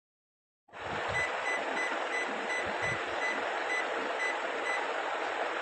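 A washing machine running: a steady rushing noise with a faint high beep repeating about three times a second and a few low thuds. It starts abruptly after a second of dead silence.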